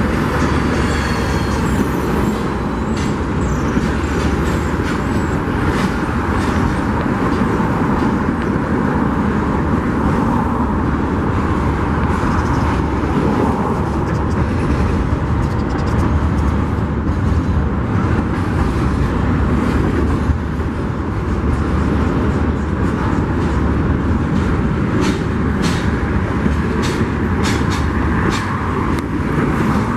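Freight train cars rolling past: a steady rumble with scattered clicks and clanks, and a faint high squeal near the start.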